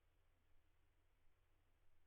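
Near silence, with a faint steady low hum and hiss.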